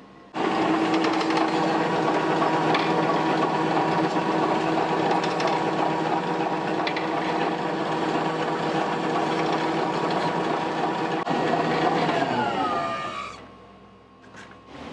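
An electric motor-driven kitchen machine switches on and runs at a steady pitch, then winds down with a falling pitch and stops near the end.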